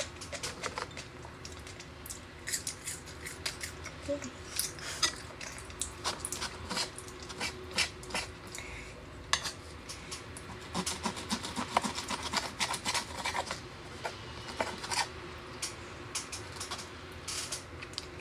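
Close-up chewing of steak with many sharp wet mouth clicks, joined around the middle by a knife and fork cutting the steak on a wooden board, scraping and clinking.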